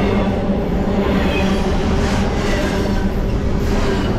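Freight train rolling past at close range: a steady, loud rumble of wheels on the rails.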